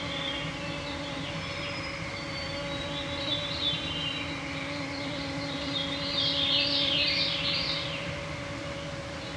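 A cloud of mosquitoes whining steadily around the microphones, with songbirds singing over them. A burst of rapid song about six seconds in is the loudest part.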